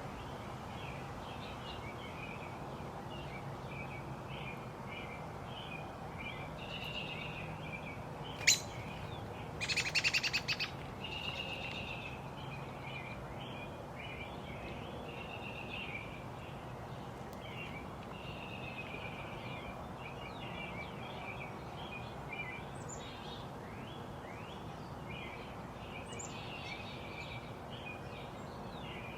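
Small birds chirping and twittering continuously over a low steady background rumble. A sharp click about eight and a half seconds in is the loudest sound, followed a second later by a loud, fast rattle lasting about a second.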